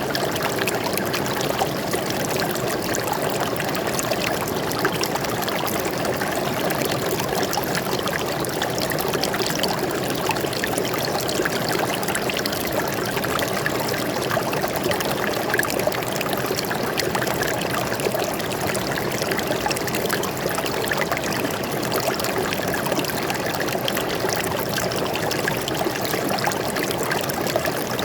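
Water flowing steadily over rocks in a forest stream, an even rushing and trickling with no breaks.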